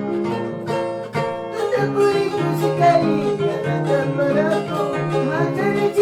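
Peruvian harp being plucked, with repeated low bass notes under a higher melody. A voice starts singing along about two seconds in.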